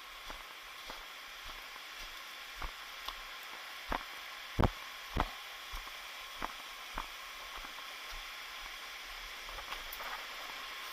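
Footsteps on a trail, a dull step roughly every half second to second, fading out after about seven seconds, over a steady hiss.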